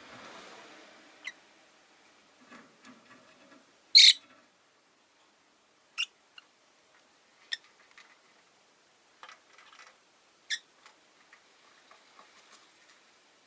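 Rosy-faced lovebirds (Agapornis roseicollis) giving short, sharp, high chirps, one at a time and a few seconds apart, the loudest about four seconds in.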